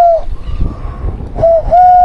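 A person calling to birds with steady, hoot-like whistled notes: one long note that ends just after the start, a short note, then another long held note. A low rumble of wind on the microphone lies underneath.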